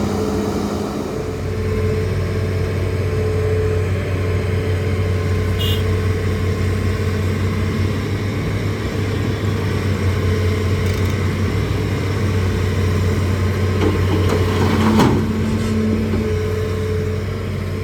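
Hitachi ZAXIS200 excavator's diesel engine running steadily, with a brief louder impact about fifteen seconds in.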